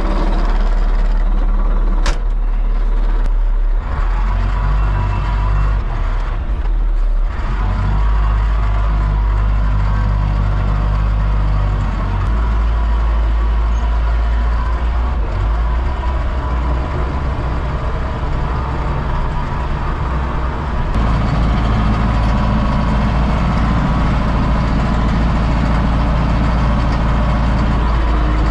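A vehicle engine running steadily while driving, its low drone getting louder about twelve seconds in and again around twenty seconds in, with one sharp click about two seconds in.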